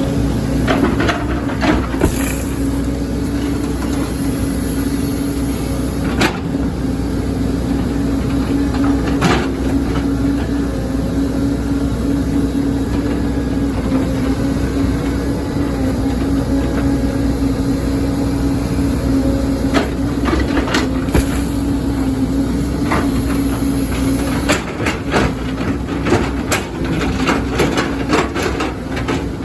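Excavator's diesel engine running steadily at a constant pitch, with scattered knocks and clatter that come thick and fast near the end.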